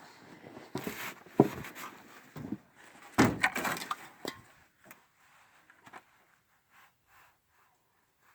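Irregular knocks and clatter of tools and parts being handled during work on a truck's engine, loudest about a second and a half and three seconds in, then thinning out and stopping about six seconds in.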